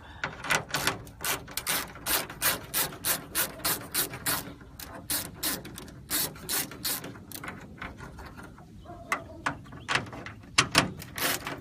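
Socket ratchet clicking in quick, regular runs, about three to four clicks a second, as it loosens 9 mm nuts. It pauses about two-thirds of the way in, then clicks again near the end.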